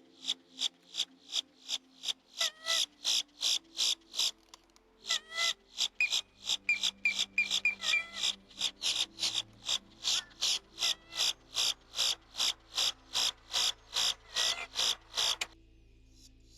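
Animal calls: a steady series of sharp, high clicking calls, about three a second, with a few short whistled notes over them. The series breaks off briefly about four and a half seconds in, then stops abruptly near the end.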